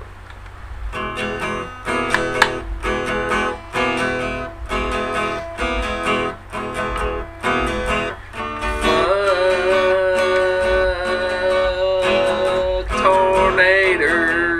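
Acoustic guitar strummed in a steady rhythm as a song intro. About nine seconds in, a long held, wavering note joins it, bending in pitch near the end.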